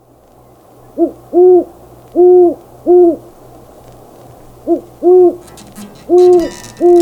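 An owl hooting in two phrases of four low hoots, each phrase opening with a short hoot followed by three longer ones.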